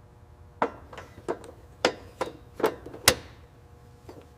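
A series of about nine sharp, irregular taps and knocks of hard objects, the loudest a little after three seconds in.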